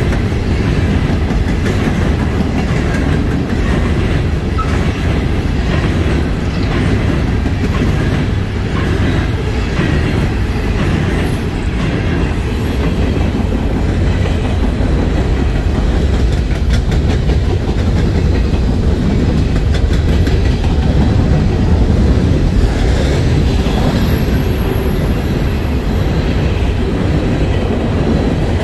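A long freight train of loaded-style steel coal hopper cars rolling past close by: a steady rumble with the clickety-clack of wheels over rail joints. A faint high screech comes twice, about twelve seconds in and near the end.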